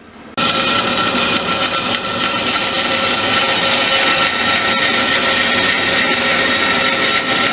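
Electric saw switched on about half a second in, then running steadily with a constant whine as it cuts an angle through marine plywood.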